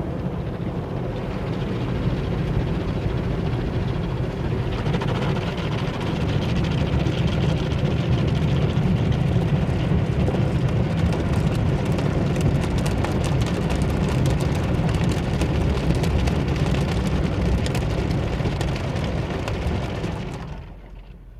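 Car wash machinery running with a loud, steady rushing noise that grows louder a few seconds in and cuts off sharply shortly before the end.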